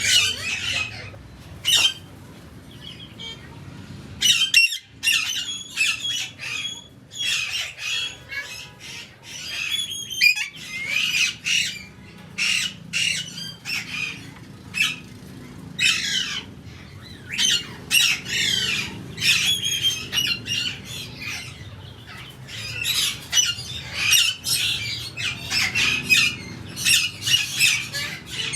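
Several birds squawking, short calls following one another rapidly and overlapping.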